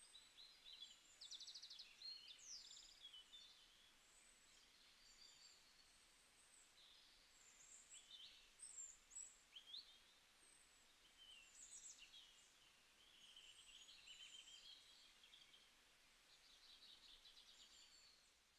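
Several birds singing and calling faintly at once: a busy mix of short chirps, quick trills and sweeping whistles.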